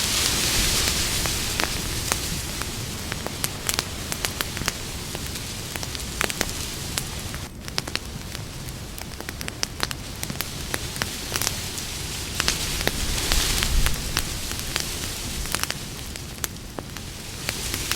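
Campfire crackling: a steady hiss of burning wood scattered with many sharp pops and snaps, swelling louder just after the start and again about two-thirds of the way through.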